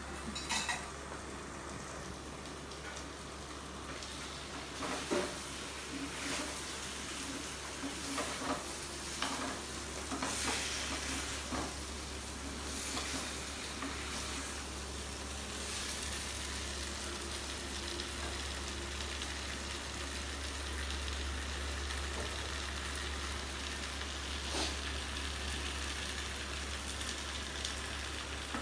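Chicken pieces sizzling in butter and masala in a clay pot, with a spoon stirring and scraping against the pot in short strokes, most of them between about five and twelve seconds in.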